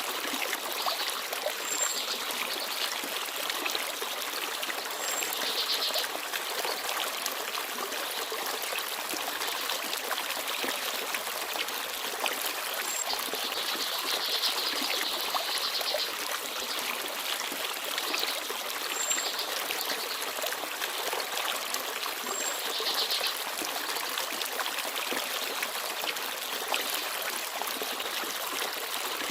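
Small forest stream babbling and trickling steadily over stones, with a few short, high chirps from small birds scattered through it.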